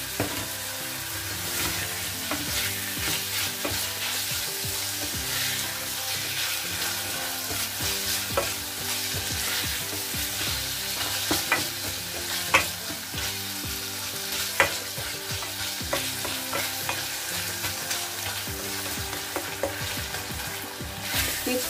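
Diced ham, onion and garlic sizzling in olive oil in a stainless steel saucepan as they are stirred with a plastic spoon, a steady frying hiss with a few sharp taps of the spoon against the pan around the middle.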